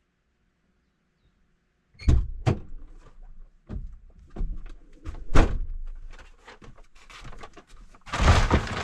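A van's doors and the gear inside being handled while it is packed: a string of knocks, thuds and clunks starting about two seconds in, with a longer scraping rush near the end.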